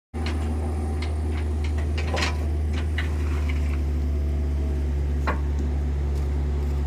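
Kubota mini excavator's diesel engine running steadily, with scattered clicks and knocks from the digging work.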